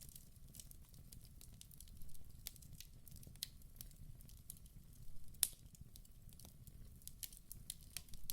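Wood fire burning in a fireplace: a low steady rumble with irregular sharp crackles and pops, the loudest pop about five seconds in.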